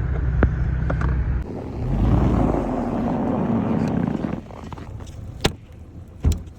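Car running, heard from inside the cabin while driving through a snowstorm: a steady low engine hum, then a louder rush of noise for about two seconds that drops away a little after four seconds in. Two sharp knocks follow near the end.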